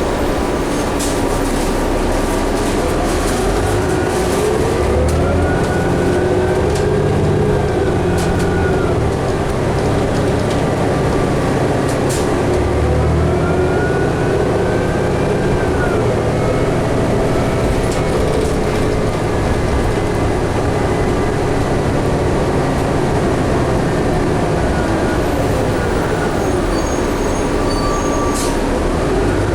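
Ride inside a 2011 New Flyer D60LFR articulated diesel bus under way: steady road and engine noise, with a drivetrain whine that rises and falls in pitch several times as the bus speeds up and slows.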